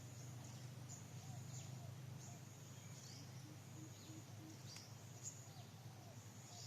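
Small wild birds chirping faintly outdoors: short, thin, high calls that sweep downward, scattered irregularly, over a low steady hum.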